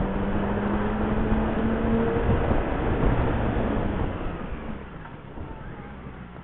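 Motorcycle engine running on the move under heavy wind rush on the microphone, its note rising slightly over the first two seconds; a little past halfway the wind and engine sound die down.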